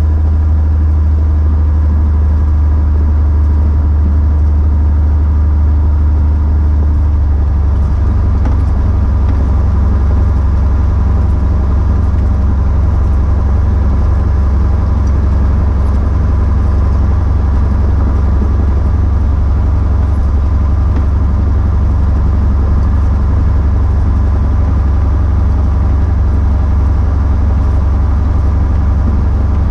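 Cessna 170B's six-cylinder Continental engine running steadily at low power; its tone changes once about seven seconds in.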